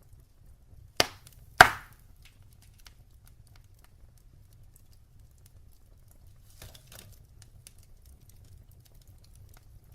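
Wood fire crackling in a fireplace: a steady low rumble with faint scattered crackles, two loud sharp pops about a second in, half a second apart, and a softer flurry of crackles near seven seconds.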